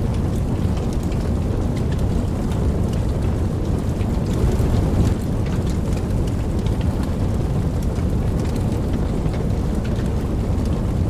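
Steady rain with scattered drop ticks over a continuous low rumble of distant thunder, which swells slightly about four to five seconds in.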